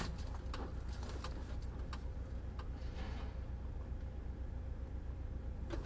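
Steady low rumble of a moving car's road and engine noise, with scattered light clicks and knocks.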